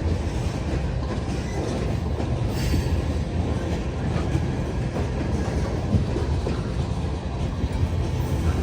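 Freight train cars rolling past on the rails: a steady low rumble of wheels on track, with occasional knocks and a brief higher-pitched note about two and a half seconds in.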